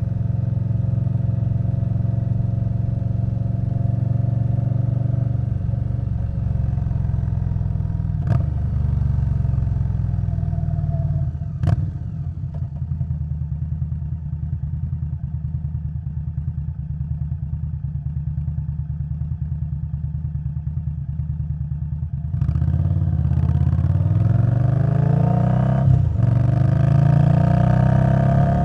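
Indian Scout Bobber Twenty's 1133 cc V-twin engine running through Vance & Hines Twin Slash exhaust at steady road speed, with two sharp clicks. About 12 s in it drops to a quieter, lower-revving run, and about 22 s in it gets louder with rising pitch under acceleration, with a brief dip near 26 s as it shifts.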